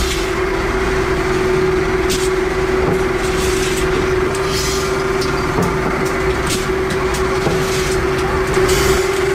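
Workshop machinery running with a steady, pitched hum, with short sharp clicks and brief hisses every second or so.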